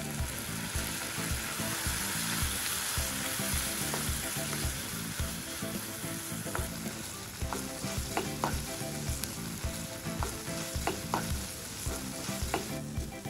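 Onions and banana peppers sizzling in a hot wok as soy sauce goes in and a plastic spatula stirs them. There are short scrapes and taps of the spatula against the pan. The sizzle is strongest in the first few seconds, then softer.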